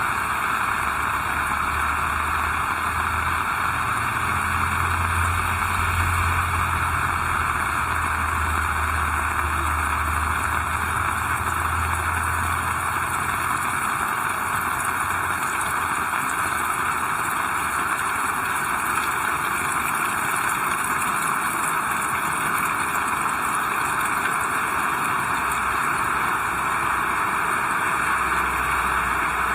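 Heavy rain falling steadily, an even hiss. A low rumble joins it from about a second in and fades out about halfway through.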